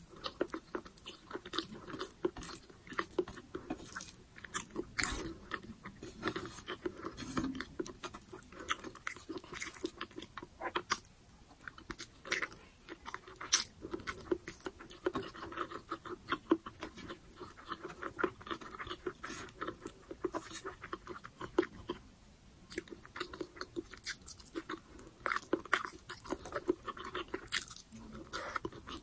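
Mouth sounds of chewing braised pork humba and rice, eaten by hand: a dense, irregular run of small wet clicks and smacks.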